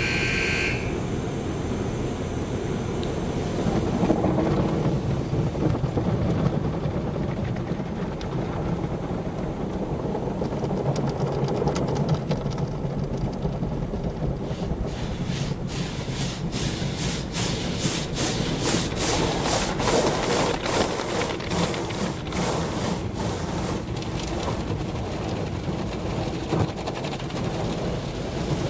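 Automatic car wash working over a car, heard from inside the car: a steady rush of water spray and machinery. From about halfway, a rapid, uneven patter of hits sets in on the car's body.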